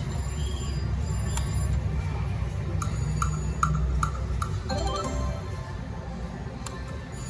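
Ultimate Fire Link Explosion video slot machine sounds while spinning: electronic game music with short repeated chime tones and a quick rising run of notes about five seconds in, over a low hum.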